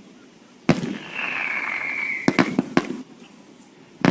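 Fireworks going off: a sharp bang, then a high whistle that sags slightly in pitch for about a second, followed by a quick run of four or five bangs. After a short lull, another bang and whistle start at the very end.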